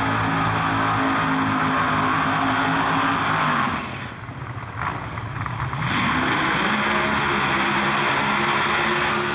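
Drag racing car engine running loud at steady high revs, with a heavy hiss. It drops away for about two seconds partway through, then comes back at the same steady pitch.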